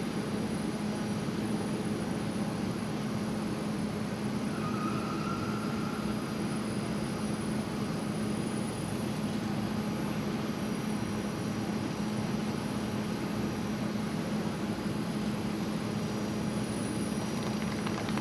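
Jet airliner engines running at low power, a steady drone with a low hum.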